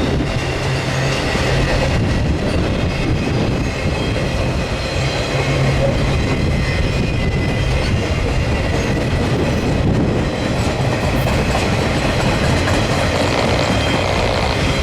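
Railroad cars of a freight-hauled circus train rolling past on the rails, a steady, loud rumble with wheel clatter.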